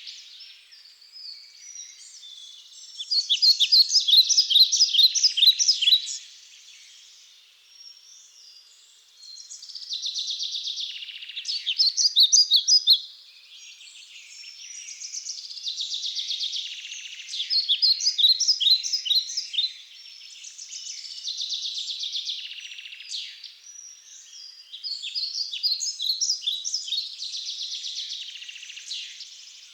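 A songbird singing repeated phrases of rapid chirping notes. Each phrase lasts two to three seconds, with short pauses between them.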